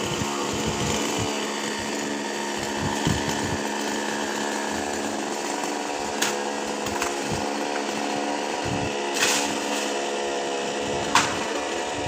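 Chainsaw engine running at a steady pitch, cutting a coconut palm, with a few short sharp clicks about halfway through and near the end.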